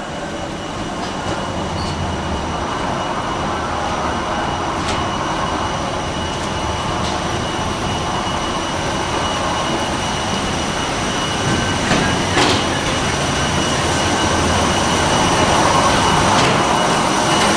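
Steady cabin noise of a parked Airbus A320 before engine start: the air-conditioning and APU running with a rushing hiss and a thin high whine, slowly growing louder, with a few sharp clicks and knocks, the loudest about twelve seconds in.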